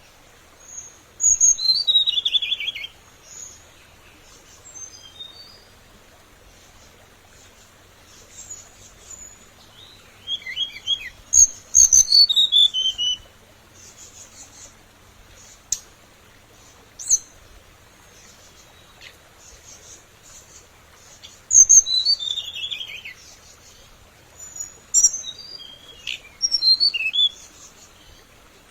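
Hồng hạnh songbird singing its lure song: four separate phrases of bright high notes, each running into a quick falling series of notes, with pauses of several seconds between them.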